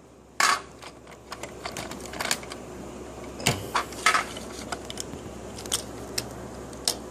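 Lego train parts being handled: irregular clicks and rattles of hard plastic pieces, the loudest about half a second in.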